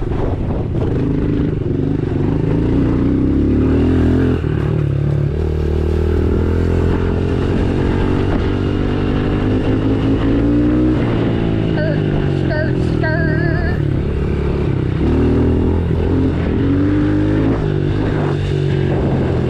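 110cc dirt bike engine being ridden hard, its pitch climbing and falling again and again as the throttle is worked, with sharp drops like gear changes at about four and eleven seconds in.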